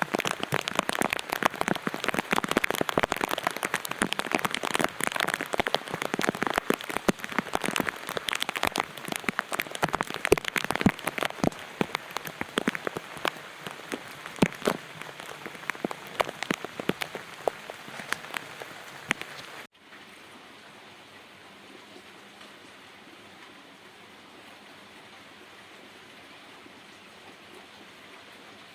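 Heavy rain pattering on a surface, with many distinct drops landing. About two-thirds of the way through it cuts off suddenly to a much quieter steady hiss.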